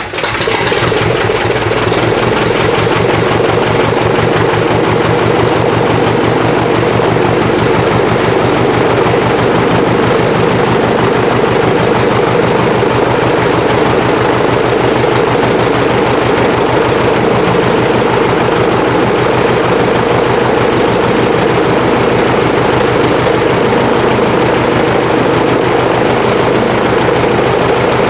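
Piper Super Cub's piston aircraft engine and propeller running steadily at low power on the engine's first run after a refurbishment.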